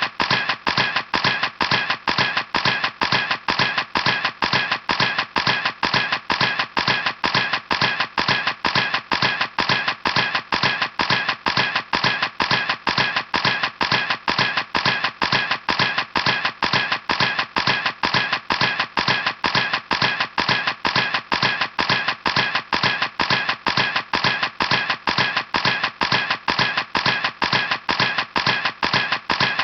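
Camera shutter clicking over and over in a steady, even rhythm, about three clicks a second.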